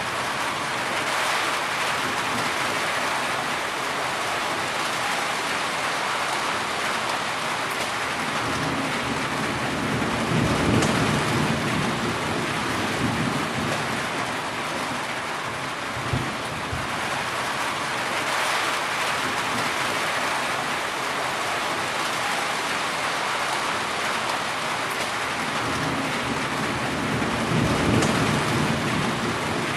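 Heavy rain falling steadily, with low thunder rumbling twice: about ten seconds in and again near the end.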